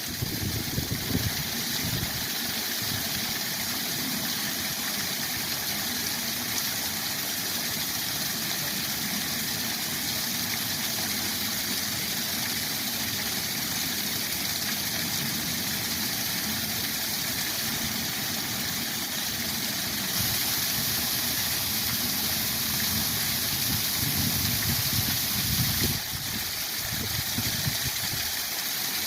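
Waterfall rushing steadily, a constant full hiss over a low churning rumble, with the hiss growing a little brighter and louder for several seconds past the middle.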